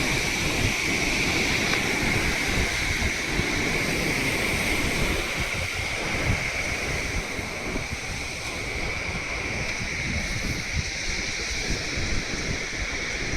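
Waterfall rushing steadily, with wind buffeting the microphone and a steady high-pitched drone above the roar.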